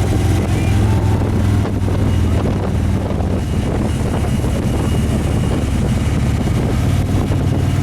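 Motorcycle riding at road speed: steady engine drone under heavy wind noise on the microphone.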